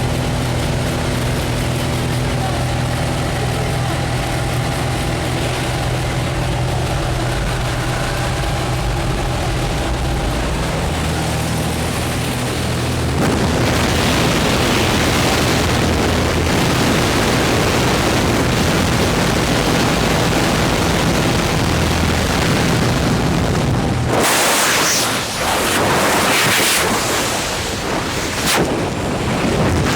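Jump plane's engine humming steadily in the cabin. About halfway through, loud rushing wind joins it. A few seconds before the end the engine drops out, leaving only heavy wind noise on the microphone, typical of the exit into freefall.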